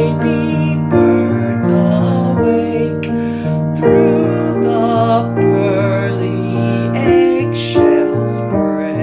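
A slow, gentle song: a voice singing with vibrato over sustained keyboard chords.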